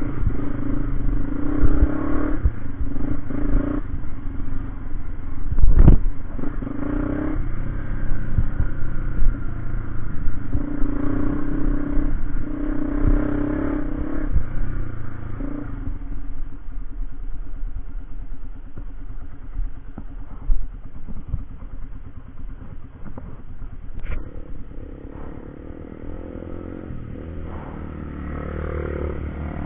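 Motorcycle engine running while under way, with scattered knocks and clatter; the engine note eases off about halfway through.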